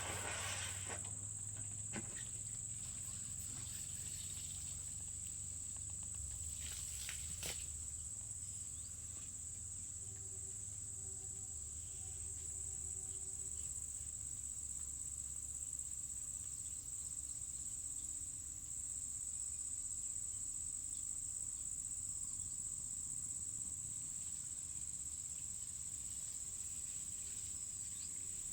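Insects trilling in one steady, unbroken high-pitched drone, over a low rumble, with a few faint clicks near the start and about seven seconds in.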